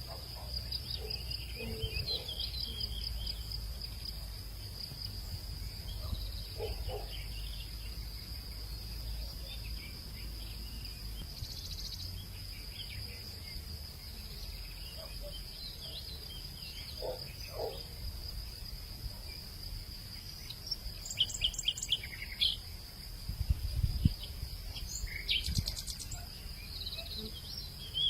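Afternoon hillside ambience: a steady, high-pitched drone of insects, with scattered bird chirps and calls over a low rumble. Near the end comes a busier run of quick, trilled bird calls.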